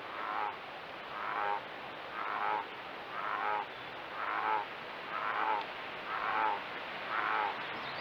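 An animal calling over and over: eight short harsh calls, about one a second, evenly spaced.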